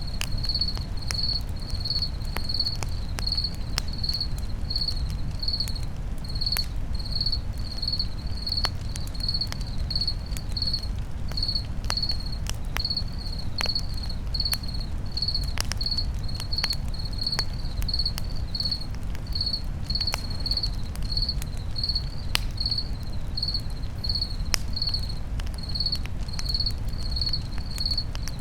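Campfire crackling with scattered sharp pops over a low steady rumble, while a cricket chirps evenly about twice a second.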